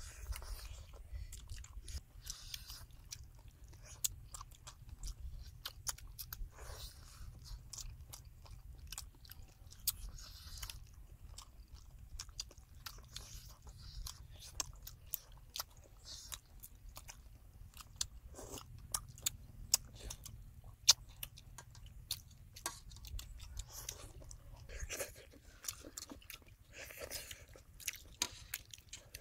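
People chewing and biting pieces of fried catfish close to the microphone: many irregular small sharp clicks and crunches over a steady low rumble.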